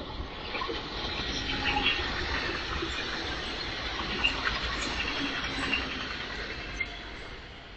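A train passing on the tracks: a rush of wheel and rail noise that builds over the first second or two, holds, then fades away near the end, with short high squeaks scattered through it.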